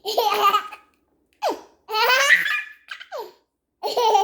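A baby laughing high-pitched in about five separate bursts, some short and a couple of longer warbling peals.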